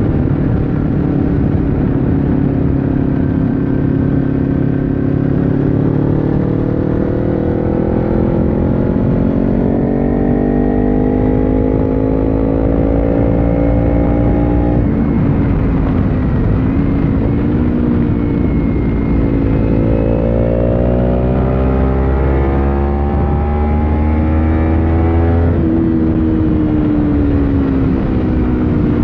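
2015 Kawasaki Ninja 300's parallel-twin engine through an Akrapovic slip-on exhaust, heard from on the bike under way. The engine pitch climbs steadily for about fifteen seconds, drops suddenly, wavers, then climbs again and drops suddenly about three-quarters of the way through.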